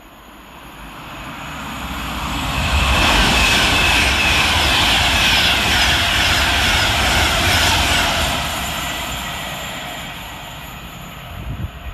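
Class 390 Pendolino electric train passing through at speed without stopping: a rushing roar of wheels and air that builds over about three seconds, holds, then fades away. A few low thumps come at the very end.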